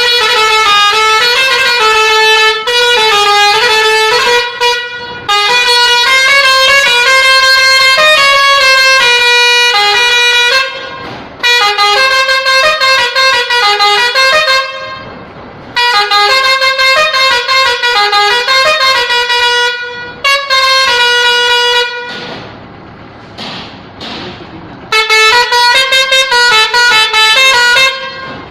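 Multi-tone musical horn on a modified truck playing a tune in quick stepped notes, loud, in several long phrases broken by short pauses.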